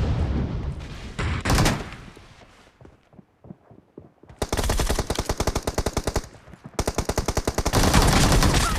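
Video-game gunfire. It opens with the fading tail of a heavy blast, then a couple of shots about a second and a half in and a short lull. From about four seconds in comes long rapid automatic fire, about ten shots a second, broken briefly near seven seconds.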